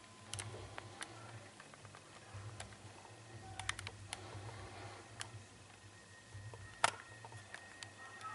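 Scattered light clicks and taps, a few close together about 3.7 s in and one sharper tap near 7 s, over a faint low steady hum.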